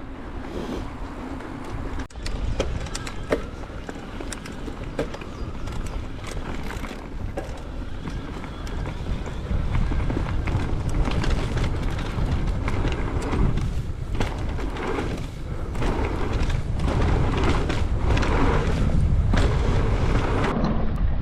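Mountain bike descending a dirt trail at speed: wind rushing over the microphone and tyres on the dirt, with frequent clicks and knocks of the bike rattling over rough ground. The noise grows louder about halfway through as the pace picks up.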